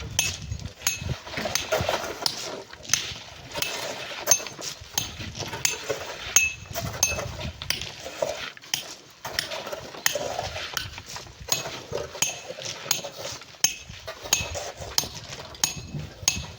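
Metal digging tools striking rock and sand in quick, irregular clinks and knocks, some with a brief metallic ring.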